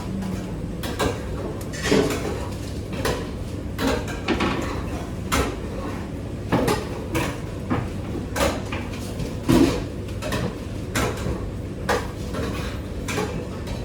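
Kitchen work: irregular knocks and clinks of dishes, pans and utensils, one or two a second, over a steady low hum.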